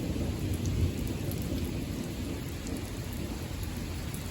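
Heavy rain falling steadily, with a low rumble of thunder that swells briefly a little under a second in.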